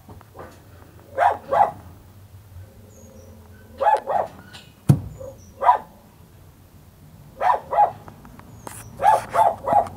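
Small dog barking in short yips, in pairs and quick runs, with a single sharp thump about five seconds in.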